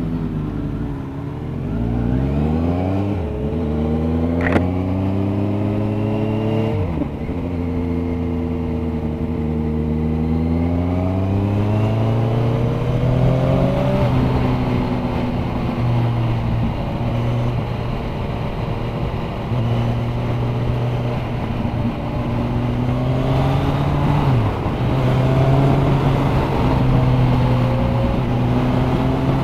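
Sport motorcycle engine pulling away and accelerating through the gears, its pitch climbing and dropping back at upshifts about 4 and 7 seconds in, then running at a steady cruise with wind noise. Near the end it eases off briefly and picks up again.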